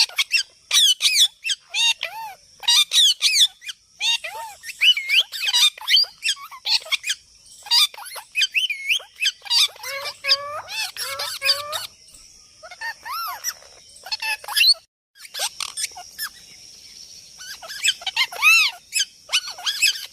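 Parrot calling in rapid runs of short squawks and whistled notes that sweep up and down in pitch, with a lower-pitched stretch of chatter about ten seconds in.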